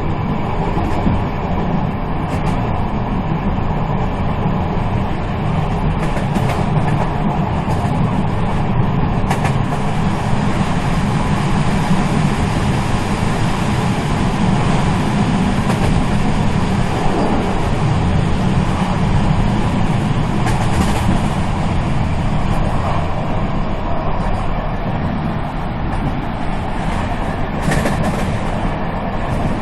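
Steady rumble of a moving train, with wheels running over the rails. There are a few faint clicks or squeaks along the way.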